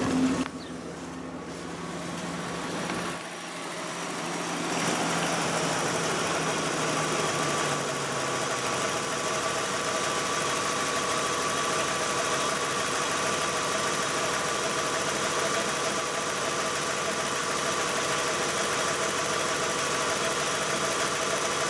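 1987 BMW E30 325e's straight-six engine idling steadily, running to get the water pump pushing trapped air out of the freshly refilled cooling system. It gets louder about five seconds in, when it is heard close up in the open engine bay.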